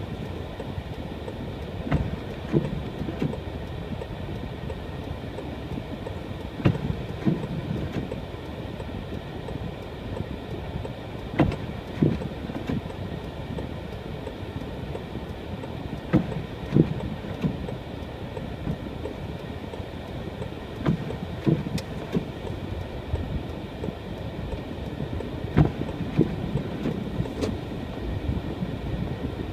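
Car driving slowly over an unplowed snow-covered road, heard inside the cabin: a steady low rumble of tyres and engine, with irregular thumps and knocks as the car rides over packed snow.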